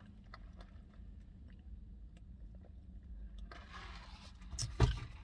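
Quiet chewing of a chicken sandwich with small scattered mouth clicks, a short rustle about three and a half seconds in, and one sharp knock near the end.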